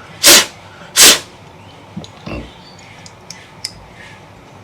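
Two short, loud rushes of air about three-quarters of a second apart, followed by a few faint small clicks.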